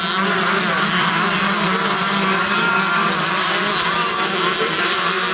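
Several two-stroke 125cc motocross bikes running at once, their engines revved up and down so that many pitches rise and fall over each other.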